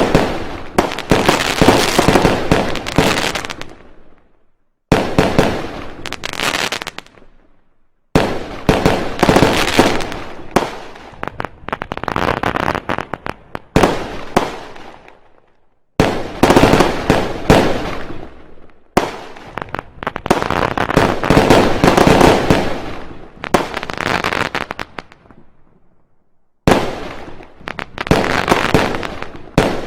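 Fireworks and firecrackers going off in rapid volleys of bangs and crackling. There are several separate bursts of a few seconds each; each starts abruptly and dies away before the next.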